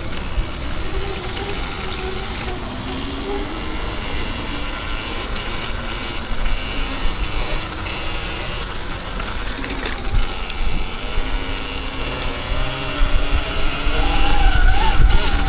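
Electric dirt bike motor whining, its pitch rising and falling with speed, over heavy wind rumble on the microphone that swells near the end.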